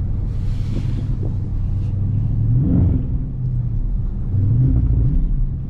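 Dodge Charger Scat Pack's 6.4-litre HEMI V8 running with a steady low drone and revving up twice, a little past two seconds in and again about four seconds in, as the tyres spin in snow trying to catch grip.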